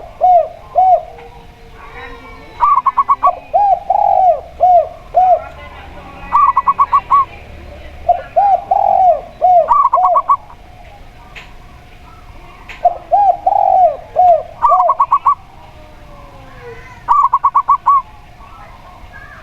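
Zebra dove and spotted dove cooing in turns: quick runs of about half a dozen short, higher notes alternate with groups of lower, arched coos, one phrase following another every three to four seconds.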